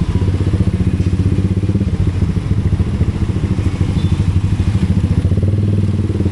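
Motorcycle engine running steadily with an even, rapid pulsing, heard close to the microphone.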